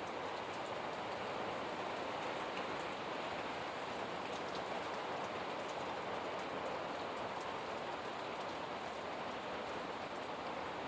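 Steady hiss of hurricane rain and wind, even throughout with no distinct pulsing.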